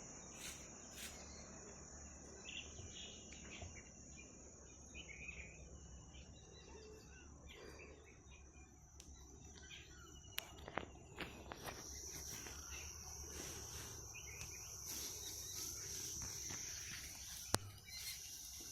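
A steady, high-pitched insect chorus with scattered bird chirps; the insect drone grows louder about twelve seconds in. A few sharp clicks come about ten to eleven seconds in and once more near the end.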